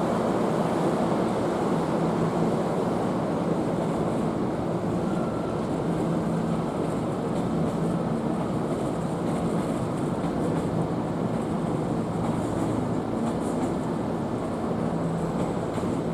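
Hankyu electric train running: a steady rumble with a low hum.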